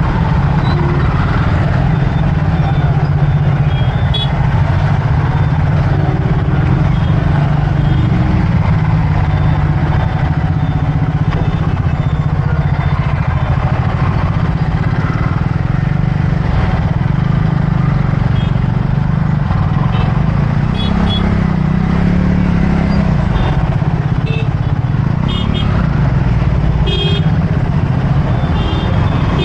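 Motorcycle engine running steadily while riding through city traffic, a loud, constant low rumble. A few brief horn toots from other vehicles sound now and then.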